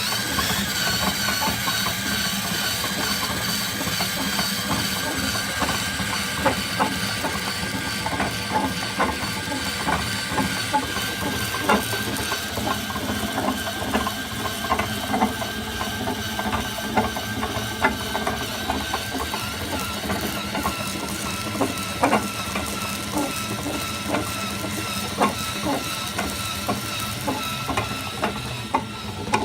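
Homemade drill-driven lathe running: a tied-down electric drill whines steadily, spinning an iron pipe through a masking-tape belt, with irregular clicking and knocking from the spinning rig.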